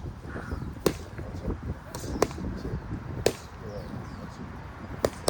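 Four sharp smacks, spaced about one to two seconds apart, over low wind rumble on the microphone, with faint voices in the background.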